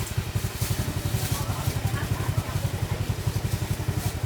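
Motorcycle engine running steadily with an even, rapid low pulse.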